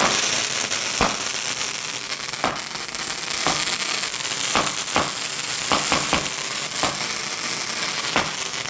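A lit firework hissing steadily, with sharp cracks at uneven intervals, about one a second.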